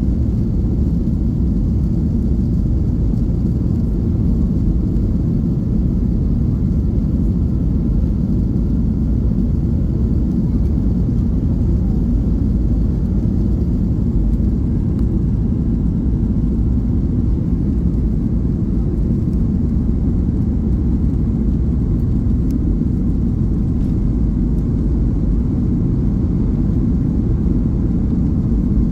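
Steady rumble of a Boeing 737's engines and airflow heard inside the passenger cabin in flight, low and unchanging.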